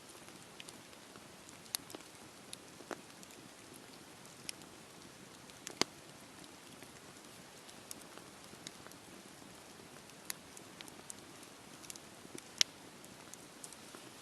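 Wood fire burning in a fireplace: a soft steady hiss with irregular crackles and sharp pops, the loudest pops about six seconds in and near the end.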